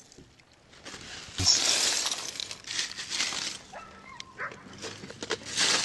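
Lake ice breaking and shattering in three sharp hissing crashes, with a few short whining tones between them.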